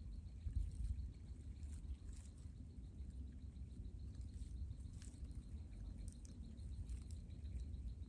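Outdoor ambience: a steady run of rapid, evenly spaced high chirps from a small animal, over a low rumble, with scattered faint ticks.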